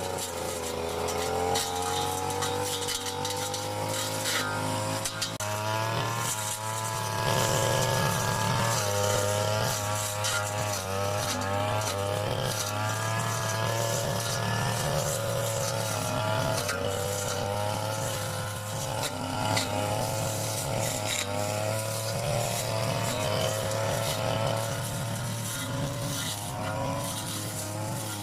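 Backpack brush cutter's small petrol engine running while cutting grass and undergrowth, its pitch repeatedly rising and falling with the throttle and load.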